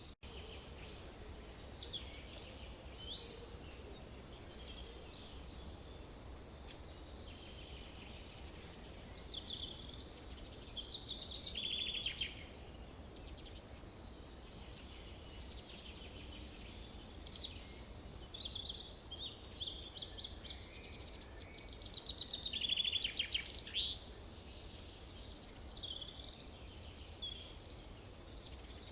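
Forest birdsong: several birds call and sing over one another, with two louder rapid trills, about ten seconds in and again about twenty-two seconds in, over a faint steady low rumble.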